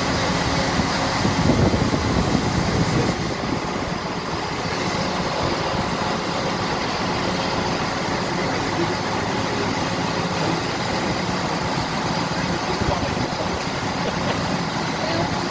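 Steady running hum and rumble of a regional train standing at the platform. It is a little louder for the first three seconds, then level.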